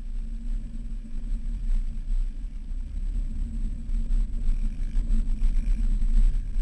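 Jeep engine running while driving on sand dunes: a low, steady rumble that swells a little louder about five seconds in.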